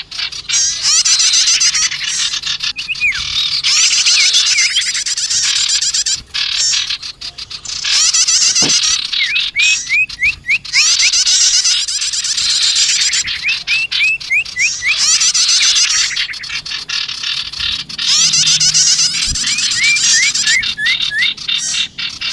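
Bird-lure recording of small songbirds chattering excitedly, with prenjak (prinia) calls mixed in: dense high twittering broken by abrupt cuts where clips are spliced, and runs of four or five quick rising chirps every few seconds.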